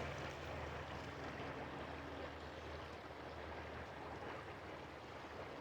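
Faint, steady outdoor background noise with a low hum underneath.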